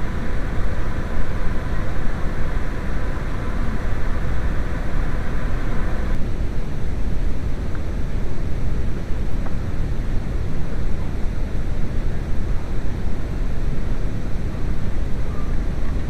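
VW 1.8T turbo four-cylinder engine idling as a steady low rumble, with its PCV check valve plugged off so that it runs smoothly again. A faint steady whine stops about six seconds in.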